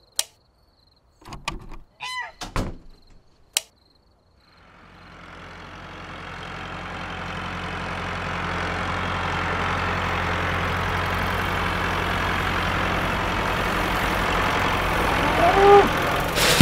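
A few short clicks, then a motor starts and runs steadily, growing louder over several seconds before holding level.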